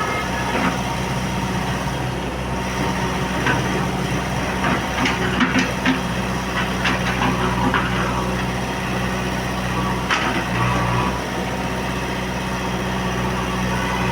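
Heavy diesel engine of earthmoving machinery running steadily at idle, with scattered short knocks and clatters over it.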